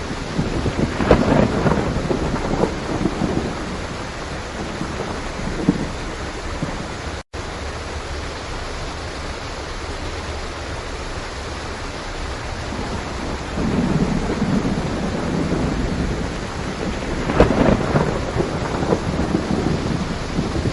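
Steady rain with rolling thunder: a rumble swells about a second in, and a longer one builds from about 13 seconds to near the end. The sound cuts out completely for a split second about a third of the way through.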